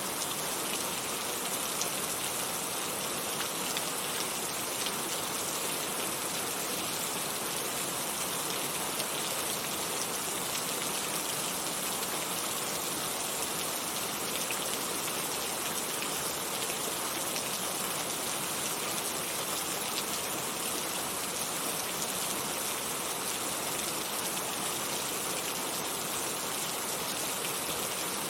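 Heavy rain falling steadily, a dense even hiss of drops with faint scattered individual drop ticks.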